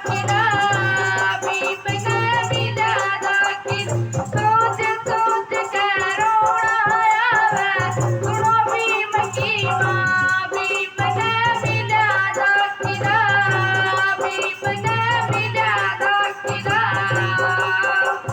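Devotional song: a voice singing a wavering melody over quick percussion with a shaker-like rattle and a low note that pulses on and off about every two seconds.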